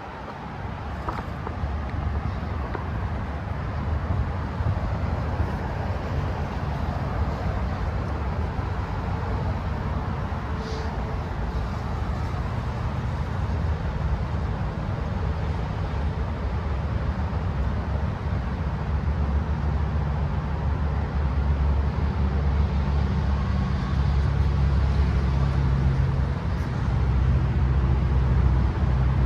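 Tri-Rail diesel locomotive engine running with a steady low rumble that grows gradually louder.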